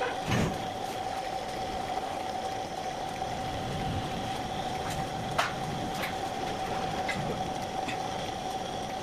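Metal lathe running with a steady hum, broken by a few sharp clicks, the loudest about half a second in and again past the middle.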